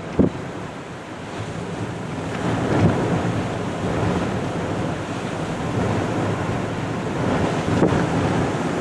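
Strong gusty wind buffeting the microphone, a steady rushing that builds over the first few seconds, with heavier gusts about three and eight seconds in. A short thump just after the start.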